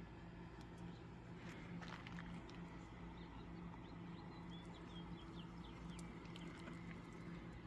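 Faint steady low hum with a low rumble under it. A few short, high chirps, like small birds, come in a cluster about four to five seconds in.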